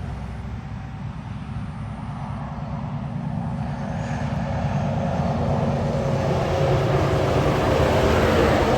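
A heavy truck approaching, its engine rumble and tyre hiss growing louder and loudest near the end as it comes up to pass.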